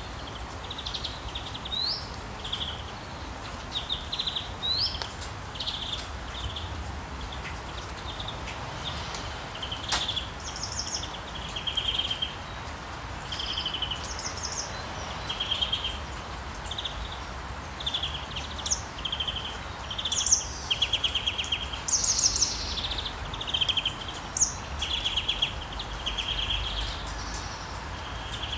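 Rainforest ambience: many birds calling in short chirps and trills over a steady background hiss and low rumble.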